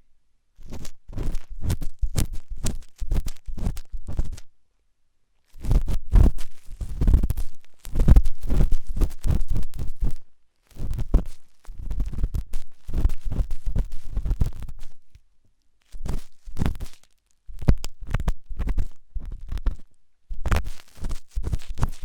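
Intense ear picking heard very close up: runs of firm, quick scraping and rubbing strokes with a deep rumble under them. Short silent pauses break the runs four times.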